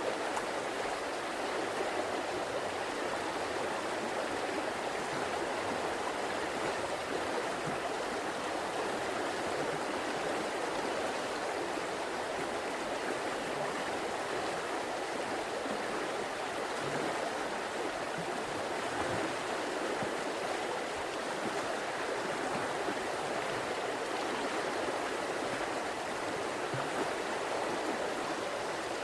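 River water flowing in a steady, even rush, without breaks or changes.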